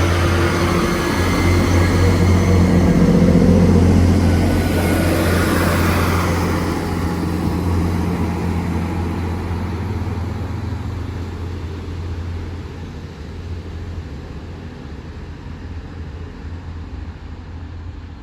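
Two coupled Class 158 diesel multiple units pulling away: the deep drone of their underfloor diesel engines is loud at first and then fades steadily as the train draws off.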